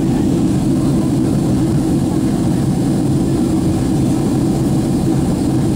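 Steady low roar of jet aircraft engines, holding an even level throughout.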